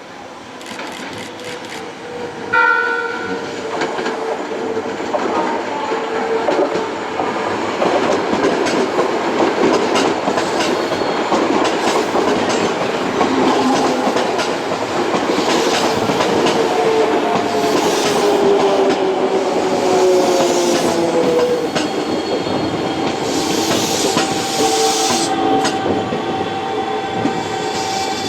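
Electric train arriving at a station platform: a short horn blast about two and a half seconds in, then the growing rumble and clatter of the cars over the rail joints. Partway through, a motor whine falls in pitch as the train slows.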